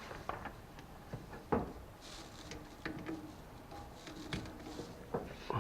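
Faint clicks and knocks of a compressor air hose's quick-connect fitting being handled and plugged in, the sharpest knock about one and a half seconds in.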